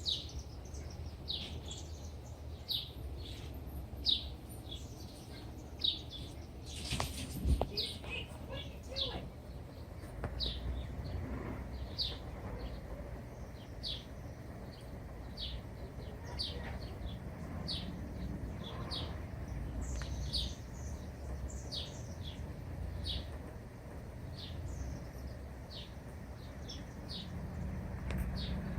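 Robin chirping: short high calls, each sweeping downward, repeated every half second to a second. A brief thump sounds about seven seconds in.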